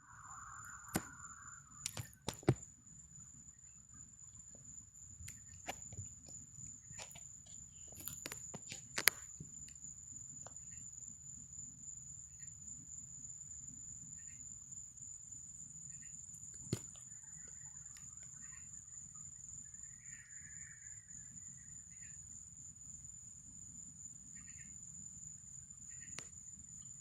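Night insects calling in one steady, high-pitched drone, over a low rumble, with scattered sharp clicks and knocks.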